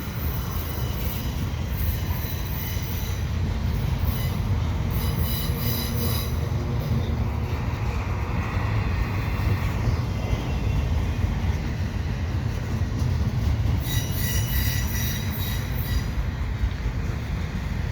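Double-stack container train rolling slowly past, its wheels on the rails giving a steady low rumble. High-pitched wheel squeal comes and goes several times.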